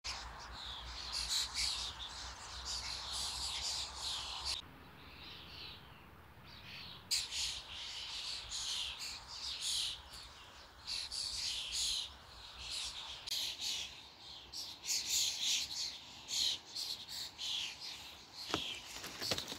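Birds singing in the trees: many short chirps and phrases repeating throughout. A faint low rumble sits underneath for the first four or five seconds, then stops.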